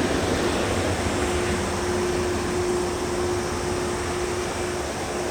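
Jet engines of an Airbus A380 (Rolls-Royce Trent 900s) running, a steady rumble with a steady hum that sets in about a second in.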